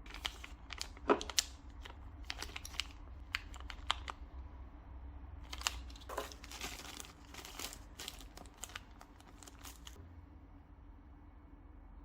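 Packaging being handled during an unboxing: crinkling and rustling with scattered sharp clicks and taps, dying away about two seconds before the end.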